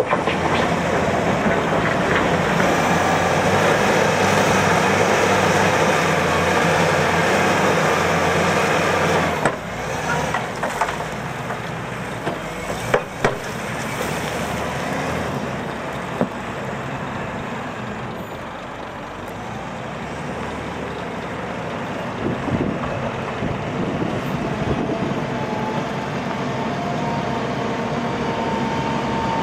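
Heavy diesel machinery working gravel: an engine runs hard under load, then drops off sharply about a third of the way in. A few sharp knocks follow, and near the end the engine note climbs again.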